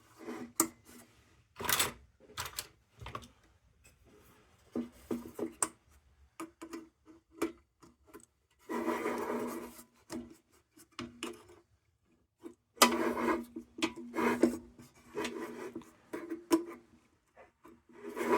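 Sheet-tin lantern parts being handled and worked during reassembly: scattered clicks and taps of thin metal, with a longer scraping rub about nine seconds in and another around thirteen seconds.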